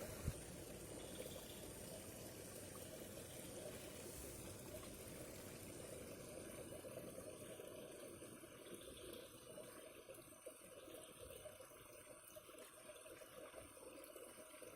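Faint running water, a steady trickle. A brief knock comes just after the start.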